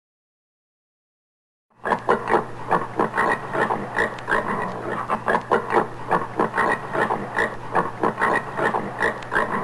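Common warthog grunting in a fast, steady series of about three grunts a second, starting about two seconds in after a silent gap.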